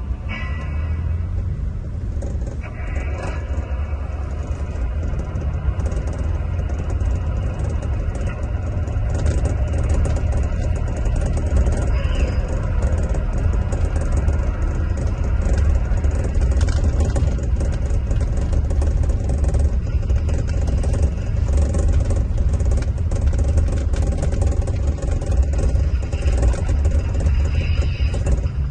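Scania diesel engine of a Marcopolo Paradiso 1800 DD double-decker coach running under way: a steady low drone with road noise, growing slightly louder after the first few seconds.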